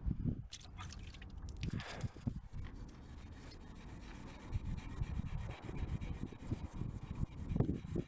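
Sandpaper rubbing back and forth over a plastic tail-light lens, cutting into the faded, oxidised surface of the plastic with repeated strokes that grow more regular in the second half.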